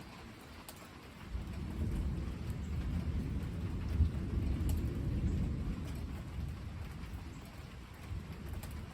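A roll of thunder over steady rain: a low rumble swells about a second in, peaks around four seconds and slowly fades. The hiss of rain and a few drips continue underneath.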